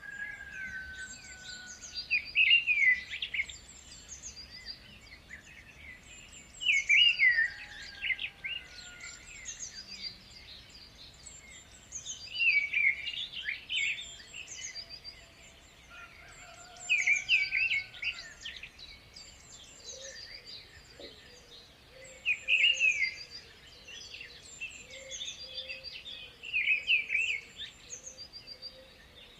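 A songbird singing a loud phrase of quick chirps that repeats about every five seconds, with thin, high twittering notes in between.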